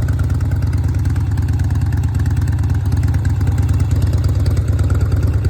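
1988 Harley-Davidson Softail's air-cooled Evolution V-twin idling steadily with a fast, even pulsing beat, running without clacking or knocking.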